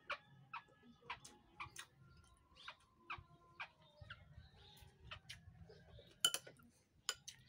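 Irregular soft crunches and mouth clicks of a person chewing raw vegetables, with a sharper clink of a spoon against a glass bowl a little past six seconds in.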